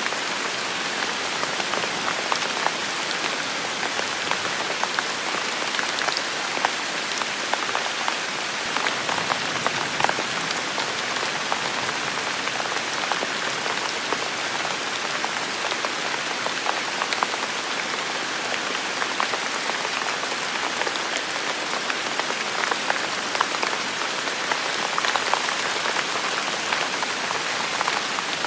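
Heavy rain falling steadily in a forest, a dense even hiss with many individual drops pattering sharply on surfaces.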